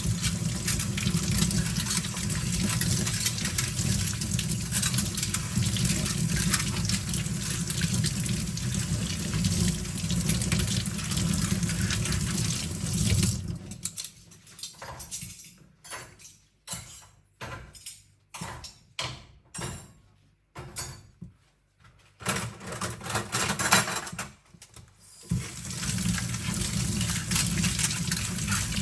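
Kitchen tap running into a sink as cutlery is rinsed under it. About halfway through the water stops for roughly ten seconds, leaving a string of short clinks and knocks, then the tap runs again near the end.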